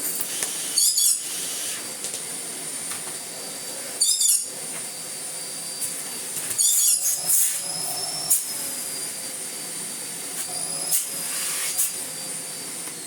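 Miele Blizzard CX1 bagless vacuum cleaner running with a steady high motor whine and a lot more suction. The pitch sags a little and recovers about two-thirds of the way through. Three short, high, warbling chirps cut across it, about one, four and seven seconds in.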